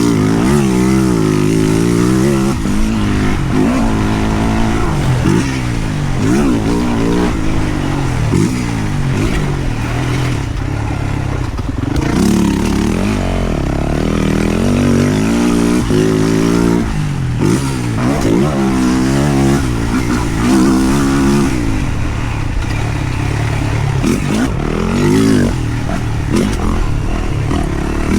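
Yamaha YZ450F motocross bike's single-cylinder four-stroke engine revving up and falling back again and again as the throttle is opened and shut.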